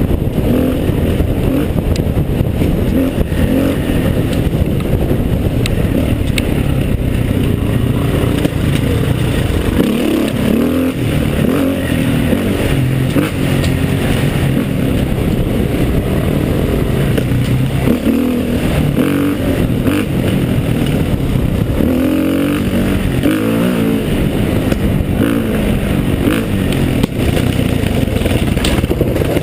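Trail motorcycle engine running under load on a climb, the revs rising and falling several times.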